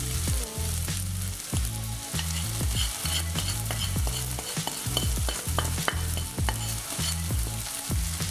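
Chopped onion, capsicum and tomato sizzling in a kadhai with ghee as roasted semolina (sooji) is poured in from a plate, with many small ticks and scrapes over a steady hiss.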